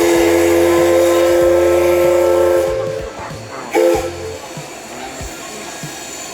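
Steam locomotive's chime whistle sounding a chord of several notes: one long blast that ends about two and a half seconds in, then a short toot about a second later, over a steady hiss of steam.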